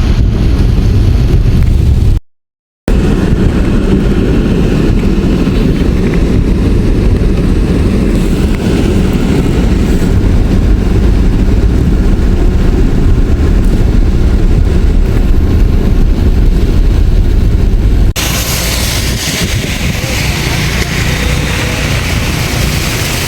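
Loud, steady rushing of heavy rain and floodwater with a deep rumble, cutting out briefly about two seconds in and turning to a brighter hiss near the end.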